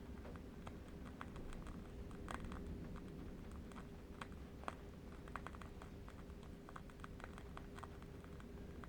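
Faint, irregular small clicks and crackles, several a second, over a steady low rumble.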